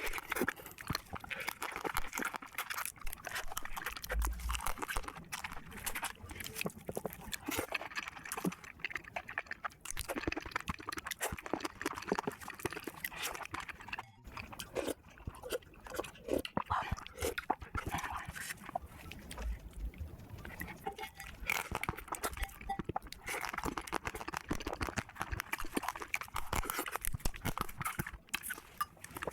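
Close-miked eating of spicy marinated crab and shrimp: a continuous, irregular run of wet chewing, sucking and slurping, with crunches.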